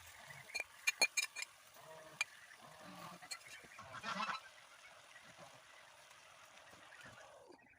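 Geese honking: a quick run of short calls about a second in, then a longer call about four seconds in.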